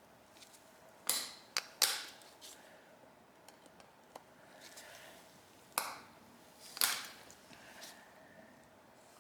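Hand tools and small carburettor parts being handled during disassembly of a Yamaha V-Max carburettor: a handful of short sharp clicks and brief scrapes, in two clusters, about a second in and again around six to seven seconds.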